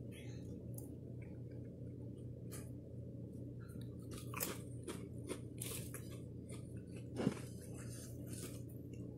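A person chewing and biting into a sandwich up close, with irregular crunchy, crackly mouth sounds that cluster about four to six seconds in and a sharp crunch about seven seconds in, over a steady low hum.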